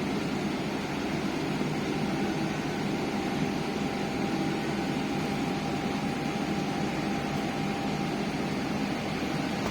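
Steady engine and road noise inside a MAZ-215 articulated city bus under way, with a faint steady whine for several seconds in the middle.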